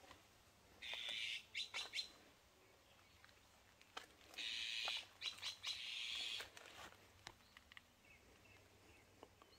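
Birds calling outdoors: two longer bursts of rapid, harsh chirping, one about a second in and another from about four to six and a half seconds in, with short sharp chirps around them.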